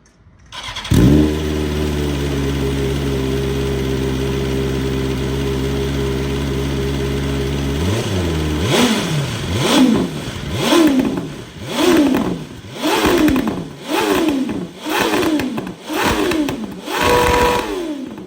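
BMW S1000RR inline-four sport bike engine through an Akrapovic slip-on exhaust, starting up about a second in and idling steadily. About eight seconds in it is blipped on the throttle repeatedly, about nine revs roughly a second apart, each rising and falling back, the last held a little longer.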